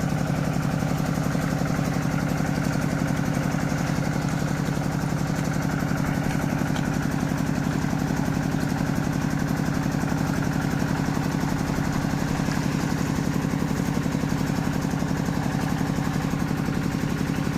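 Small engine running steadily at an even speed, one unchanging drone with no revving.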